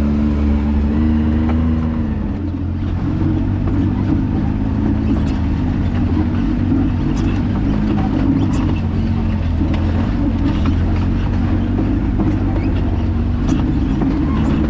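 Can-Am Maverick X3 side-by-side's turbocharged three-cylinder engine running while driving on a dirt trail. Its steady pitch drops about two seconds in and then turns rougher and more variable, with scattered light clicks.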